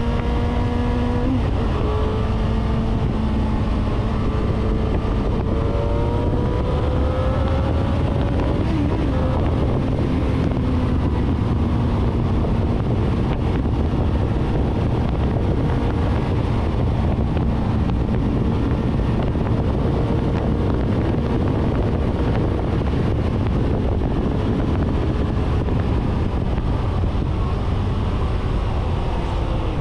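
Suzuki GSR750's inline-four engine with a full 4-into-1 Akrapovic exhaust, heard while riding: its pitch drops at a gear change just over a second in, climbs under acceleration, drops again at another shift about eight seconds in, then holds a fairly steady cruise. Heavy wind rumble lies under it throughout.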